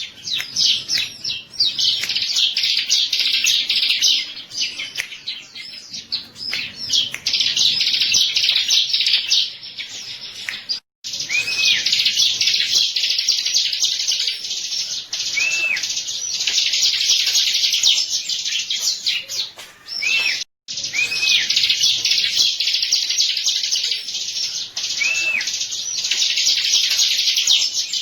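Bar-winged prinia (ciblek) singing: a dense, fast run of high, sharp chirps with small arching notes repeated among them, broken by two very short gaps, at about 11 and 20 seconds in.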